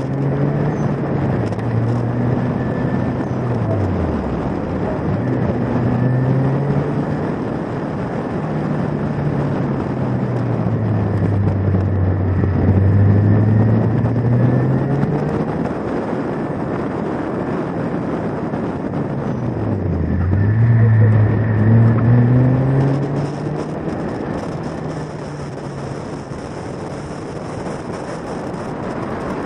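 Ariel Atom's supercharged Honda four-cylinder engine under hard track driving, revs climbing and falling through the gears and corners and dropping away sharply twice, about four seconds in and again about twenty seconds in. A steady rush of wind and road noise runs under it.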